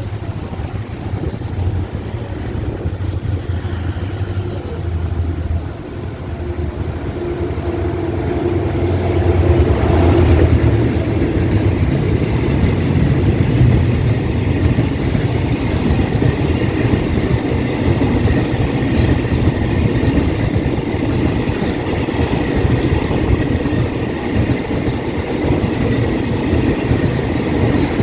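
Hitachi diesel-electric locomotive 4509 passing with a freight train in heavy rain: the engine drone grows louder over the first ten seconds or so, then the steady rattle and clatter of freight wagons rolling by continues.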